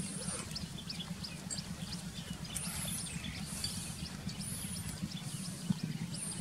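Birds chirping in many short high notes, with a high arching call repeated about every two seconds, over a steady low rumble.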